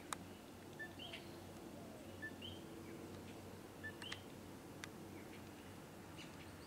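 A bird calling, a short two-note call (a brief lower note, then a higher curving note) repeated about every one and a half seconds. A few sharp clicks fall between the calls, over a faint steady low hum.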